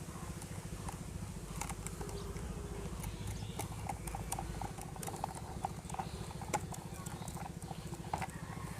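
Screws being driven into a plastic toy motorbike: irregular small clicks and taps of the screwdriver and plastic parts over a steady low hum.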